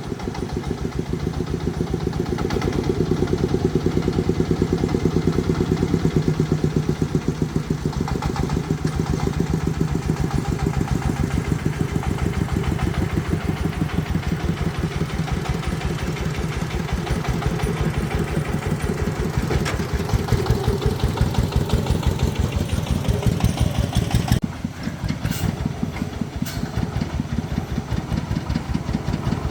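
Tractor engine running at a steady, low speed with a rapid, even beat of firing pulses. About three-quarters of the way through, the level dips briefly and then the same beat carries on.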